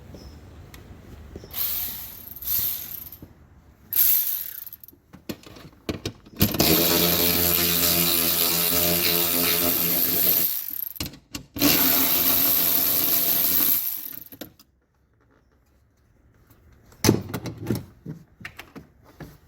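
A small power tool's motor runs steadily twice, about four seconds and then about two and a half seconds, as it undoes fasteners during a car repair. A few knocks and scrapes of parts being handled come before and after.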